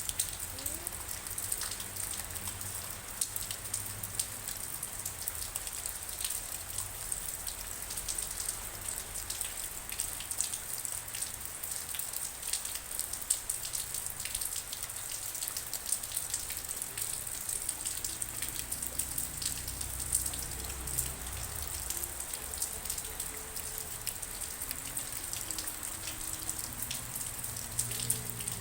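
Steady rain, with many separate raindrops ticking sharply on a hard surface over an even hiss.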